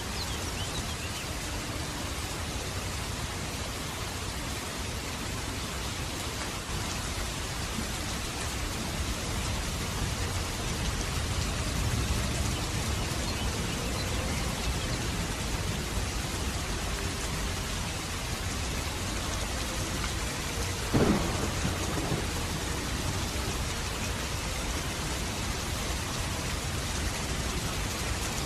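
Steady rain with low thunder rumbling, and one short sharp crack about three quarters of the way through.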